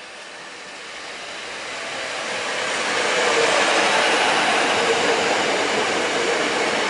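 PESA Link diesel multiple unit passing at speed. Its running noise grows over the first three seconds as it approaches, then holds steady and loud as the cars go by.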